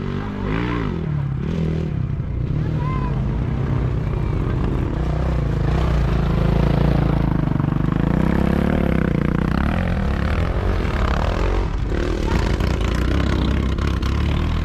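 Sidecar motocross motorcycle engines revving hard, their pitch swinging up and down, swelling louder around the middle and then easing off.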